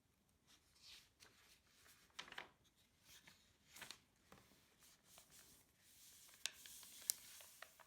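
Faint rustling of paper being handled, a string of soft swishes, with two sharper clicks near the end.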